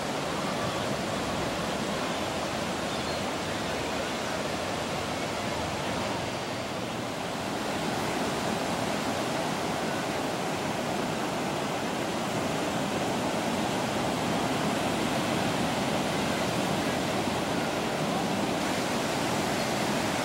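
Ocean surf: a steady rush of breaking waves, swelling slightly about a third of the way through.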